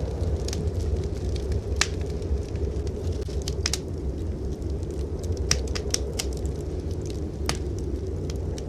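Wood fire in a fireplace crackling, with sharp scattered pops at irregular intervals over a steady low rumble.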